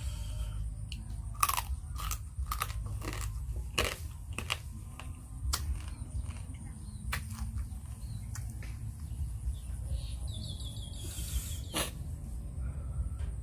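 Crab shell crunching and cracking as it is bitten and chewed, a string of sharp crunches mostly in the first half.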